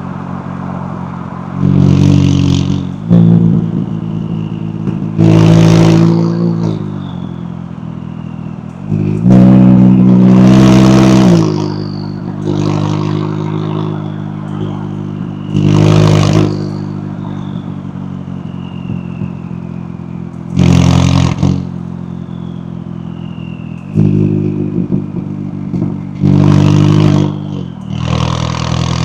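McLaren 570S twin-turbo V8 revved in about nine short bursts over a steady idle. A thin whistle falls in pitch after each burst.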